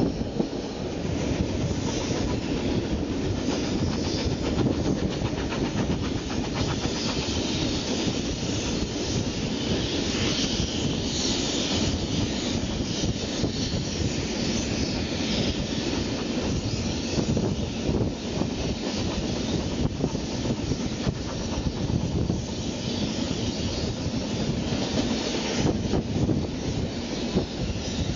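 A steam-hauled passenger train's carriages rolling along at speed, with a steady rumble of wheels on track and a run of clickety-clack clicks as the wheels pass over rail joints and points, heard from an open carriage window.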